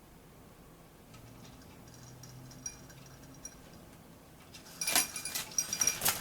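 A burst of metallic rattling and clinking with a ringing edge, starting about five seconds in, after a few faint ticks.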